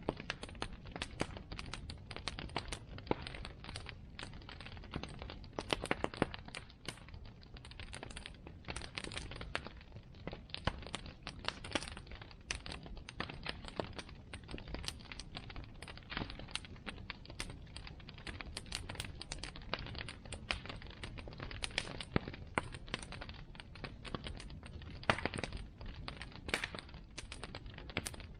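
Bonfire crackling: a constant run of irregular sharp snaps and pops from the burning wood over a steady low rumble of the flames.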